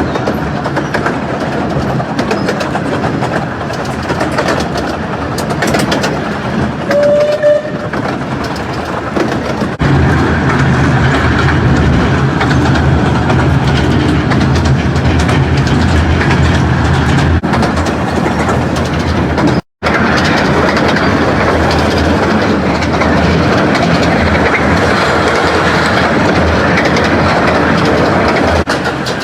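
Romney, Hythe and Dymchurch Railway miniature train running on the track, its wheels clattering over the rails. It gets louder with a steady deep rumble from about ten seconds in. The sound cuts out for an instant about twenty seconds in.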